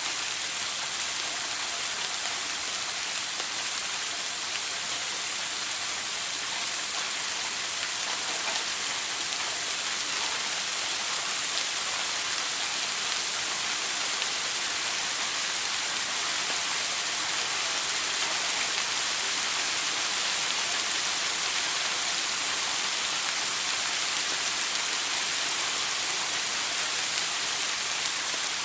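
Shower water spraying and falling steadily: a constant, even hiss.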